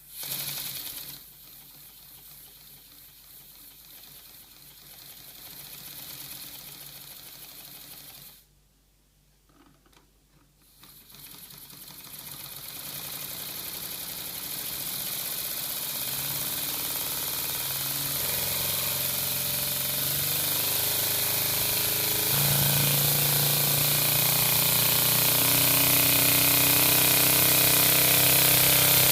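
LEGO inline two-cylinder pneumatic engine running on compressed air: a fast mechanical whirr with air hissing through it. It stops for about two seconds after a few seconds of running, then starts again and speeds up steadily, growing louder and higher to a fast hissing whirr.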